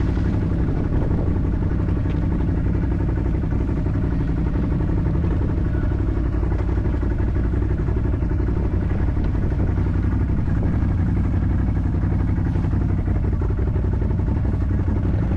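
ATV engine running at a steady pitch, with no clear revving up or down.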